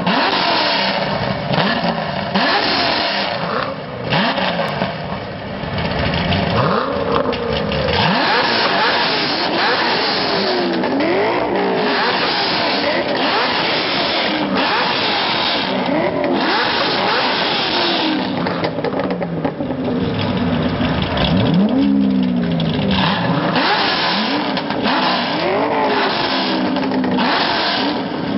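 Several Chevrolet Corvette V8 engines being revved hard in place, with repeated blips whose pitch sweeps up and falls back, often overlapping one another.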